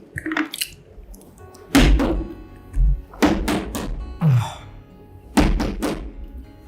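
Close-miked bites and chewing of a crispy-battered mozzarella corn dog: sharp crunches about once a second, several with a low thud under them.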